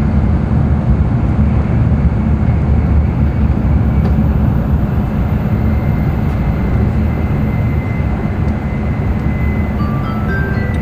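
Inside the passenger cabin of an N700 Tokaido Shinkansen at speed: a steady, loud running rumble and hiss. Near the end, the onboard announcement chime starts, a short tune of bell-like notes.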